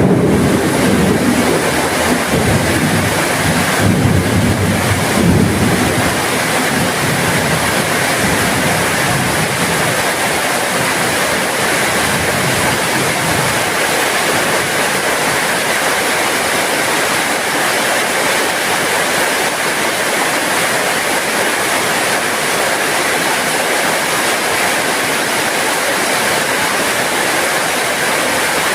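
Heavy rain falling steadily, a dense, even hiss. A low rumble sits under it for about the first six seconds, then fades.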